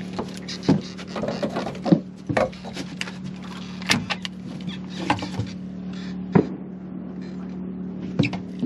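Steady hum of a bass boat's electric trolling motor. Sharp knocks and clatter on the boat come at irregular moments over it, about seven in all.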